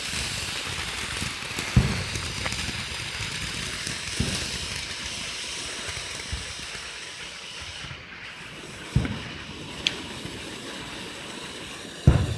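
Consumer fireworks going off: a steady hissing burn for about eight seconds, broken by sharp bangs every two to three seconds, the loudest near the end.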